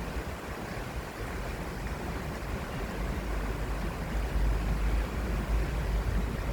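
Outdoor ambience beside a city stream: a steady rushing noise of water and distant city hum, with wind rumbling on the microphone that grows stronger about four seconds in.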